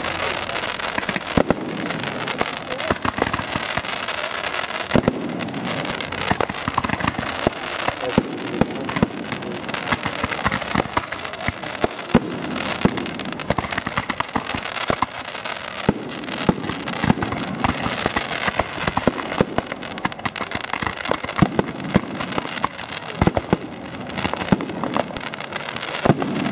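Fireworks display: a dense, continuous run of bangs, pops and crackling from bursting shells and ground effects, with no let-up.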